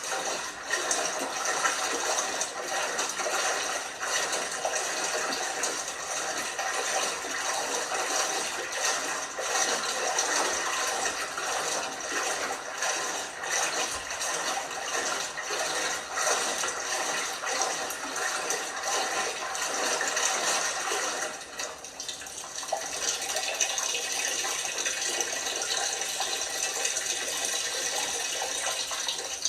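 LG washing machine taking in water: a steady rushing hiss of water that dips briefly about two-thirds of the way through, then carries on.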